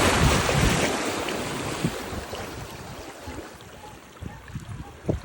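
Atlantic surf: a wave breaking and washing up the shore, loudest at the start and fading over about three seconds, with wind buffeting the microphone.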